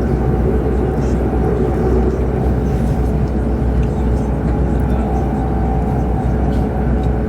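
Steady cabin noise inside a Chinese high-speed train running on the line: an even low rumble with rushing noise and a faint steady hum.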